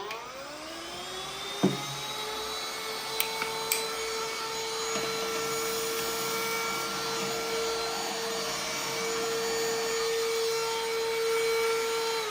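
Small XREXS cordless handheld vacuum switched on: the motor spins up to a steady high whine, runs with a few sharp clicks early on, then winds down as it is switched off at the end.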